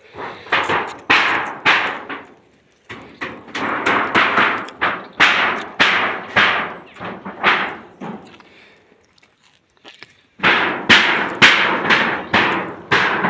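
Hammering on corrugated iron roofing sheets (mabati): runs of sharp strikes, about two to three a second, broken by a pause of about two seconds past the middle.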